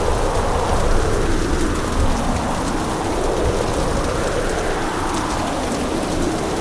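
Hurricane: heavy rain and wind in a steady, unbroken rush. The middle of the sound swells and eases slowly, with a low rumble underneath.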